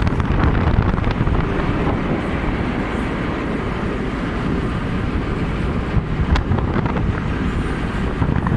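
Wind buffeting the phone's microphone over a steady low rumble, with no pauses or sudden changes.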